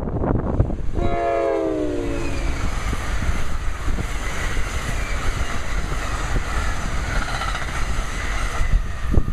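NJ Transit ALP-46 electric locomotive and Multilevel coaches passing at speed: the locomotive sounds one short horn chord about a second in, its pitch dropping as it goes by, followed by the steady rush and clatter of the train on the rails. The sound cuts off abruptly near the end.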